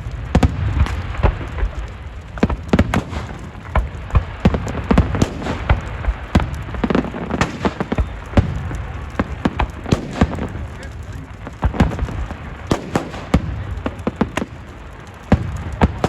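Fireworks going off: a rapid, irregular run of sharp bangs and crackles, several a second, over a low rumble, with people's voices underneath.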